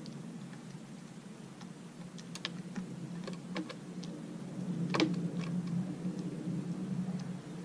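Scattered light clicks and taps, with one sharper click about five seconds in, over a steady low hum.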